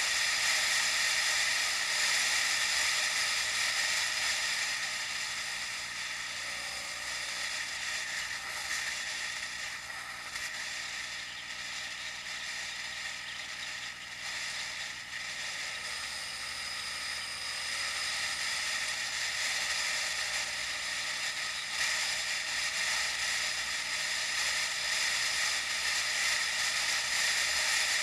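Steady hiss of riding a bicycle, heard through an action camera: tyre and wind noise that eases a little in the middle and builds again near the end.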